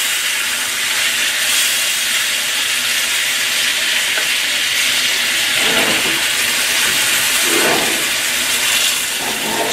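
Flour-coated pork chops shallow-frying in hot vegetable oil in a wok over medium-high heat: a steady sizzle.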